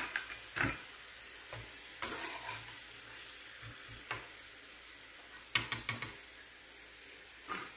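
Thin strips of raw plantain sizzling steadily as they deep-fry in hot oil. A perforated metal skimmer clinks sharply against the pan and a steel plate several times as the fried strips are scooped out, with a quick run of clinks a little past halfway.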